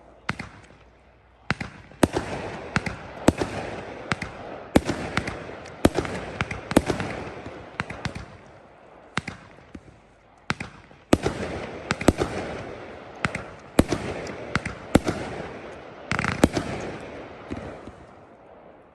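An irregular series of sharp bangs and cracks, sometimes two or three a second, each trailing off in a fading echo. The bangs stop a little before the end, and a fading hiss follows.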